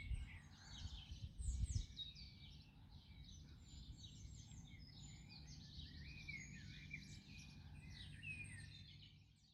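Faint outdoor birdsong: many short chirps and trills from garden birds, with two low bumps in the first two seconds.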